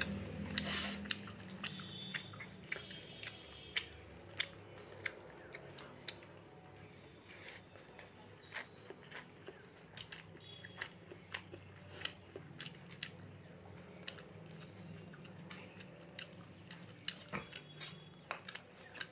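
A person chewing a mouthful of rice and fish eaten by hand, close to the microphone: wet mouth clicks and smacks at irregular intervals, over a low steady hum.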